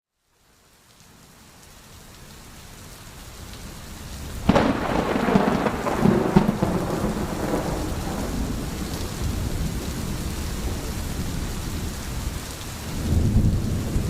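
A thunderstorm: steady rain fades in from silence, then a sharp thunderclap about four and a half seconds in breaks into rolling thunder over the rain. A second roll of low thunder builds near the end.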